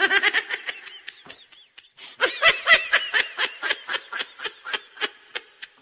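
High-pitched laughter in quick short bursts, about five a second, dying down briefly about a second and a half in, then starting up again louder.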